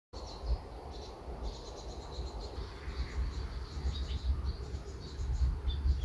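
Small birds chirping: many short, high-pitched chirps over a steady low rumble that grows louder near the end.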